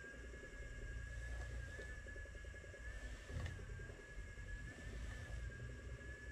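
Ashford electric spinner's motor running steadily with a thin, even high whine, its flyer turning as two singles are plied into 2-ply yarn, over a faint low rumble.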